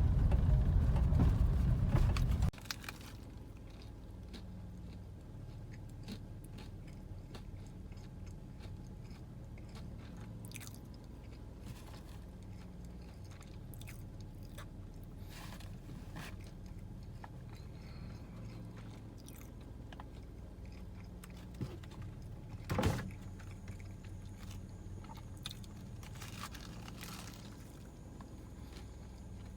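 A person biting into and chewing a fried chicken sandwich, with faint crunches from the crispy coating, over a steady low hum. A louder low rumble fills the first couple of seconds, and there is one sharper knock or crunch about two-thirds of the way through.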